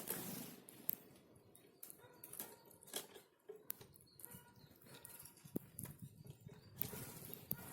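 Small forest birds' wings fluttering in short whooshing bursts, at the start and again near the end, with scattered light clicks and taps between.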